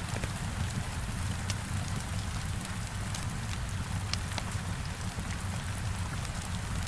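Heavy rain beating on a window, a steady unbroken hiss with a deep low rumble underneath, dotted with scattered sharp crackles and pops from a fireplace.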